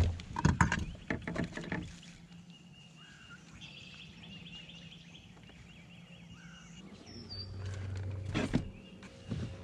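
A few sharp knocks and taps in the first two seconds, then birds chirping quietly, with a low rumble and another knock in the last few seconds.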